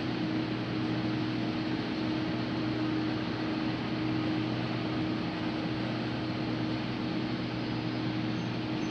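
Large diesel farm machine running steadily: a constant engine drone with a low hum under an even hiss, unchanging throughout.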